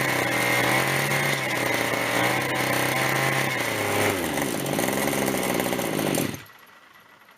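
Zenoah G26 two-stroke gasoline engine of an RC helicopter running, warm and set rich. About four seconds in it slows, its pitch falling, and near the end it stops abruptly.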